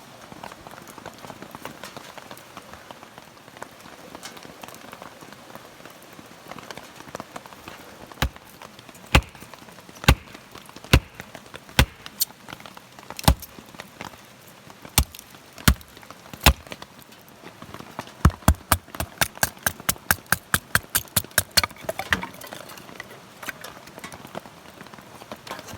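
Rain falling steadily, with sharp knocks over it: single knocks about a second apart from about a third of the way in, then a fast run of about four a second.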